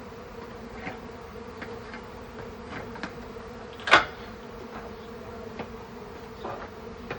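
Honeybee swarm humming steadily, with single bees buzzing briefly past close by. One sharper, louder sound about four seconds in.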